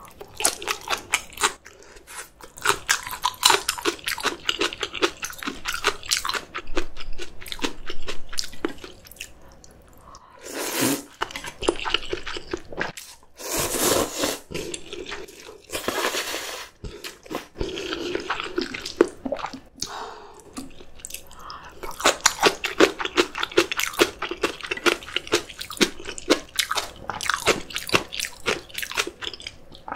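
Close-miked crunchy chewing and biting of kimchi: rapid runs of crisp crunches with brief lulls and a few louder, fuller mouth sounds near the middle.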